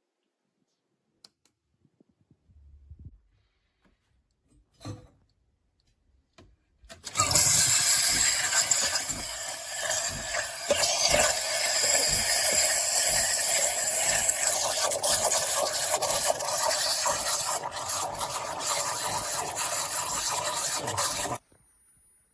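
De'Longhi Dedica Style espresso machine running with a loud, harsh hissing rush. It starts suddenly about seven seconds in, holds steady for about fourteen seconds, then cuts off abruptly. A few faint knocks come before it.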